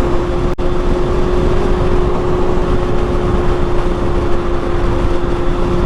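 Motorcycle engine running at a steady cruising speed with a constant engine note, under heavy wind rush on the microphone. The sound cuts out for an instant about half a second in.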